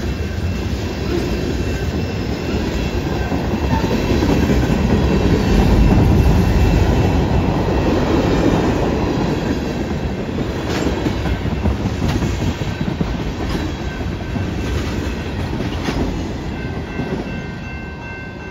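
Freight train tank cars and covered hopper cars rolling past: a steady rumble of steel wheels on the rails with a few sharp clicks, loudest about six seconds in and fading near the end as the cars move away.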